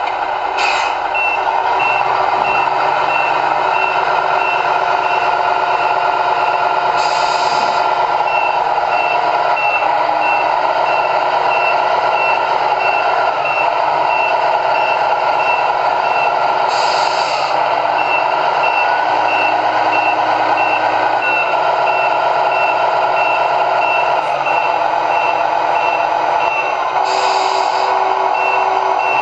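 Reversing beeper of an RC model truck's sound module beeping steadily, over the model's steady truck-engine sound. Three short hisses come about ten seconds apart.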